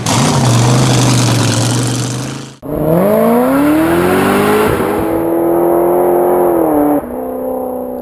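Mud truck engines at full throttle on a drag pass. One runs at a steady high pitch until an abrupt break, then another climbs in pitch as it accelerates, holds high, and steps down about seven seconds in.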